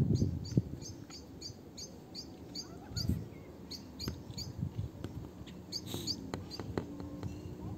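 A small bird chirping repeatedly, short high chirps about two or three a second that thin out near the end, with a few faint knocks and rustles.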